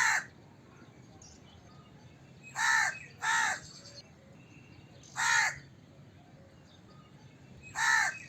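Crow cawing: five caws, single calls spaced a couple of seconds apart and one quick pair, each under half a second.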